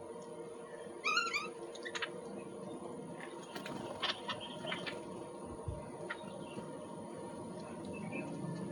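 Small birds giving short chirping calls, with a quick run of rising notes about a second in, among scattered sharp clicks and a faint steady hum.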